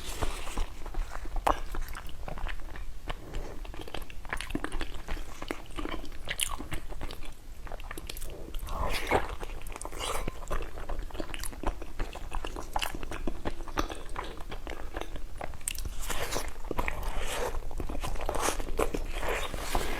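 A person eating, likely the pumpkin-and-pork steamed dumplings: irregular bites and chewing with many small clicks.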